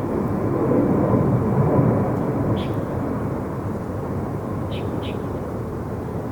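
Jet airliner's engines rumbling as it passes, the noise swelling about a second in and then slowly fading. A few short high chirps sound over it.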